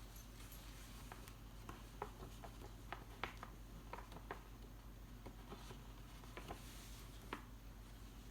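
Faint, irregular soft clicks and paper rustles of picture-book pages being fumbled with and turned by gloved cat paws.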